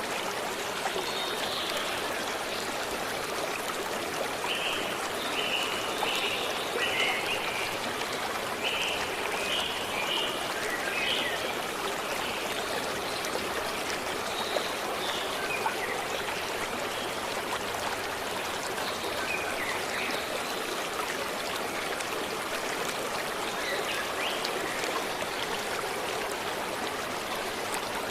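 A forest stream running steadily, with birds calling over it: clusters of short, repeated high notes in the first ten seconds or so, then scattered chirps.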